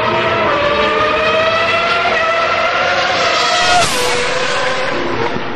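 Motorcycle engine pulling away under throttle, its pitch rising steadily, then falling away about four seconds in.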